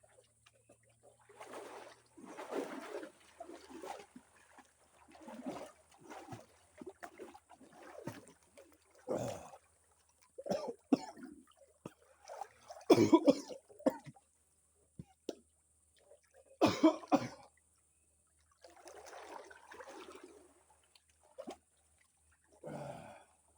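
A swimmer in the water: irregular splashes and trickling water mixed with gasping breaths and coughs, the loudest bursts in the middle of the stretch.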